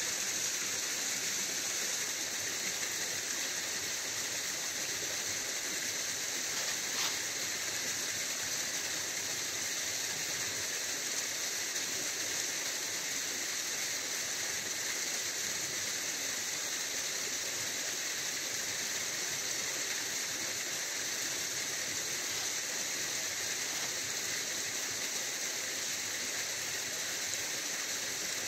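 Steady rush of a waterfall, an even hiss that never lets up, with one faint click about seven seconds in.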